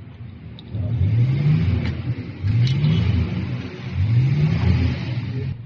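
Diesel engine revved three times: each time the pitch rises for about a second and then drops back to idle.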